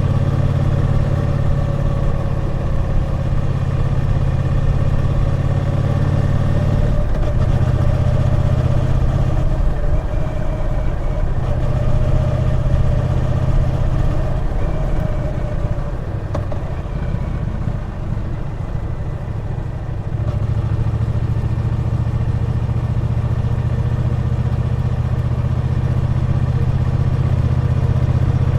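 Triumph Bonneville T120's 1200 cc parallel-twin engine running on the move. Its note changes abruptly about seven seconds in. It drops quieter for a few seconds past the middle, then comes back fuller.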